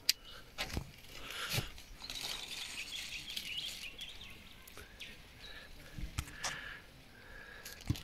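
Birds chirping and calling over quiet outdoor ambience, busiest a couple of seconds in, with a few brief soft knocks.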